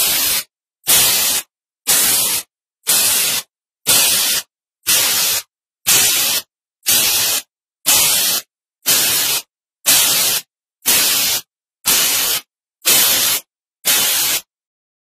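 Short bursts of hiss, about one a second and each about half a second long, with dead silence between them; they stop near the end.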